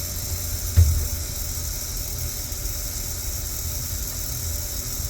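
Overhauled valve shuddering: a steady low vibrating hum picked up through a phone held against the valve body, with one knock about a second in.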